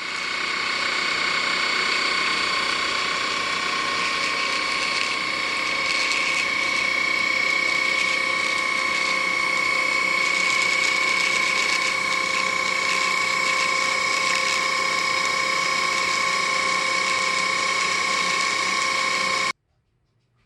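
Electroland ANAK cordless stick vacuum running steadily, a high motor whine over a rushing hiss, then cutting off suddenly near the end.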